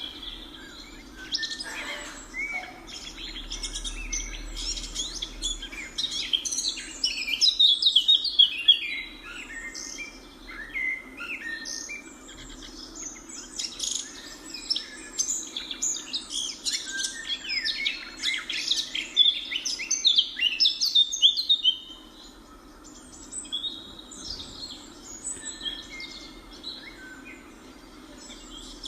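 A flock of birds chirping and calling over one another in a dense chatter of short, high calls. The chatter is busiest in the middle and thins out near the end.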